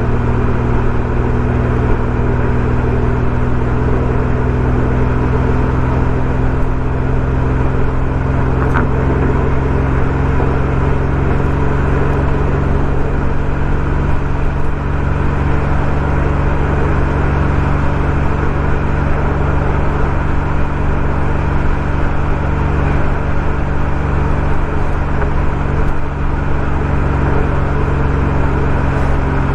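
BMW M140i's turbocharged 3.0-litre inline-six running through a Remus aftermarket exhaust at a steady, moderate engine speed while driving, its pitch creeping up slightly over the first ten seconds.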